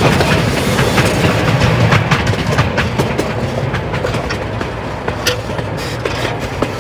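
Small ride-on farm train's open passenger car rolling along a narrow-gauge track: a steady rumble with irregular clicks and knocks from the wheels and car.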